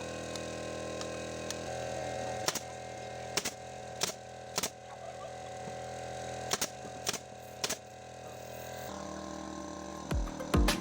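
Pneumatic staple gun firing staples into wood, about seven sharp shots in irregular pairs and singles, over the steady hum of an air compressor. Music comes in near the end.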